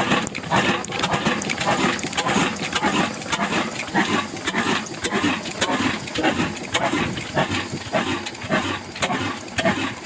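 Old Ruston Hornsby diesel engine running, with a steady, even beat of a few strokes a second.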